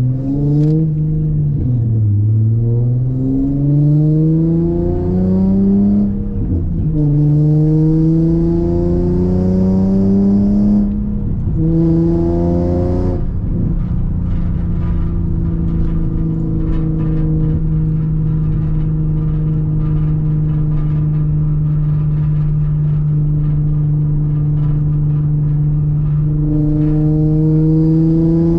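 Car engine running through a custom titanium single-exit exhaust with ART cats and a titanium Y-pipe, pulling through the gears: its pitch climbs and drops back at each of about four upshifts, then holds steady at cruise for around twelve seconds before climbing again near the end.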